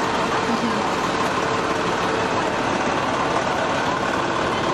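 Fire truck's engine running, a steady drone of engine and road noise.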